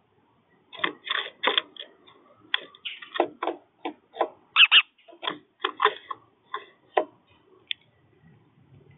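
Irregular sharp taps and clicks at a bird feeder, a few each second, typical of birds pecking and cracking seed on the feeder.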